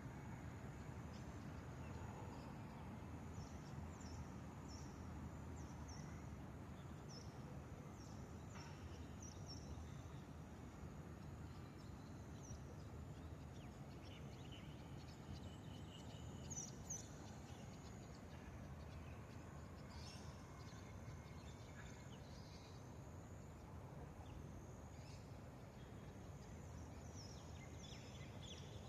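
Many short, high bird chirps, a flock of small birds, likely swallows, calling over a steady low background rumble. The chirps come thickly in the first few seconds and again near the end.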